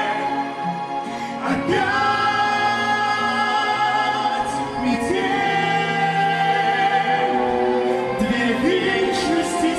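A duet song playing: singing voices holding long notes over instrumental backing.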